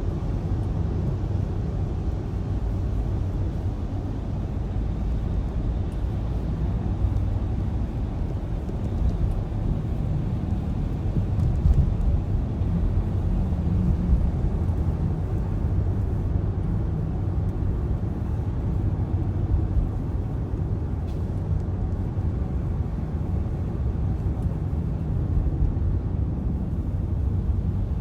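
Blizzard wind on the microphone: a steady low rumble with uneven buffeting and no breaks.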